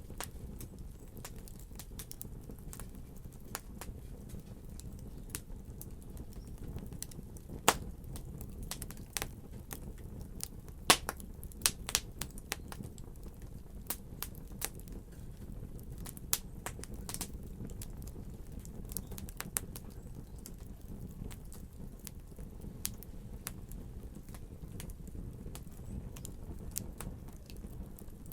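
Wood fire crackling, with a steady low rumble and scattered sharp pops, a few of them louder, about a third of the way through.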